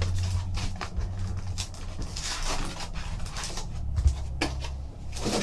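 Hands opening a trading card box and pack: irregular cardboard and wrapper rustling with small clicks and crinkles, over a low hum.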